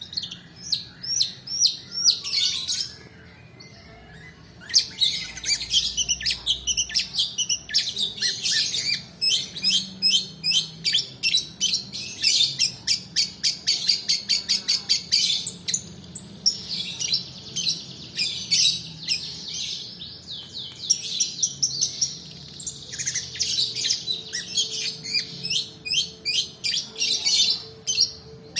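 Long-tailed shrike (pentet) singing: long runs of fast, repeated high chattering notes rolling one into the next, with a short break a few seconds in.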